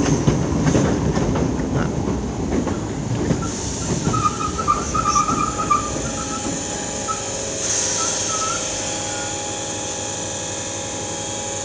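Electric multiple-unit commuter train pulling into the platform, its wheels rumbling as it slows, with a brief high brake squeal about four to six seconds in. It then stands at the platform with a steady hum and hiss from its equipment.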